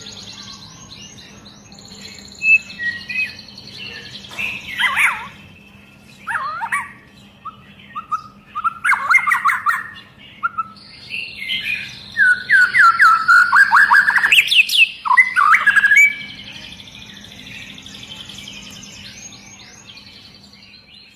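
White-rumped shama (murai batu) in full song: loud, varied phrases, including a fast run of repeated sweeping notes in the middle, over steady softer high chirping. The song fades back to the soft chirping for the last few seconds.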